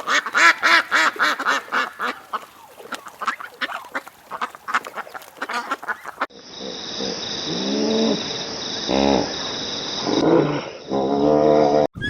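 Ducks quacking: a rapid run of overlapping calls for about six seconds, then an abrupt switch to a different recording with slower, separate calls over a steady high-pitched hiss.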